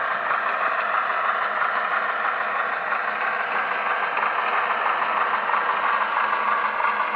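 HO scale model diesel locomotive's sound decoder playing a steady diesel engine sound through its small speaker as the locomotive pulls a car along the track.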